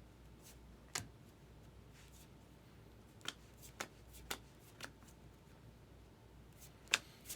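Baseball trading cards being handled and flipped through by hand, giving about seven short, sharp card clicks at irregular intervals, in a cluster from about three to five seconds in and again near the end.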